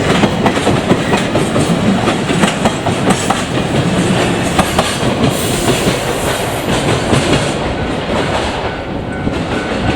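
A train's cars rolling past, their wheels clacking rapidly and continuously over the rail joints, easing off slightly near the end.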